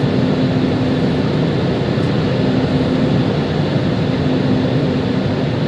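Steady engine and airflow noise inside the cabin of an Airbus A320 on approach to land, with a low hum that comes and goes.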